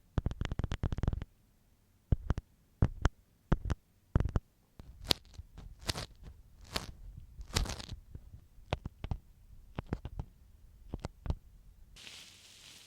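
Ear pick scratching and scraping close against a binaural microphone's ear. A quick run of scrapes opens, followed by separate short strokes and a few longer drawn-out scrapes. A soft brushing hiss starts near the end.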